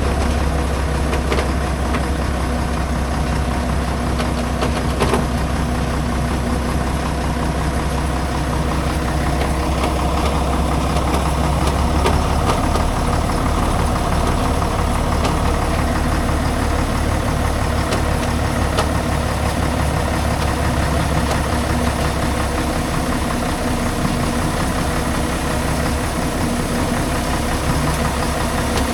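Heavy diesel logging truck engine running steadily at low revs, with a few scattered clicks.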